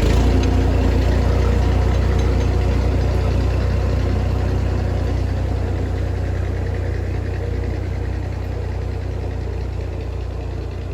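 Small tractor's engine running steadily under load, slowly fading over several seconds.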